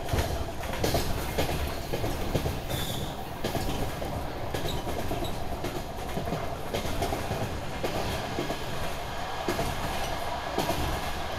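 Inside a moving DR1AMv diesel railcar: the steady running rumble of the train on the track, with frequent irregular clicks and knocks from the wheels.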